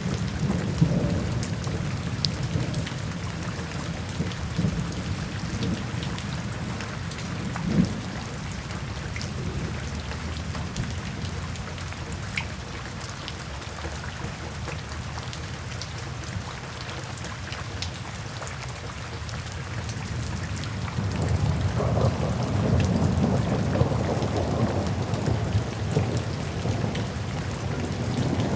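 Steady rain falling, with thunder rumbling low beneath it; the rumble swells louder about three-quarters of the way through.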